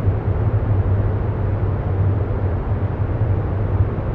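A steady low rumble with a hiss above it, unchanging throughout: a continuous ambient noise bed.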